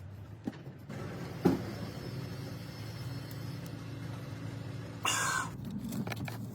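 A car engine idling steadily, with a sharp click about a second and a half in and a short hiss about five seconds in.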